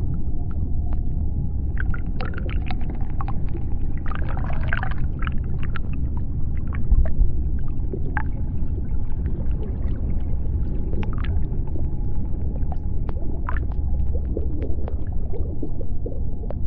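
Underwater sea-floor ambience: a deep, steady rumble with scattered sharp clicks and crackles, and a brief wavering call about four seconds in.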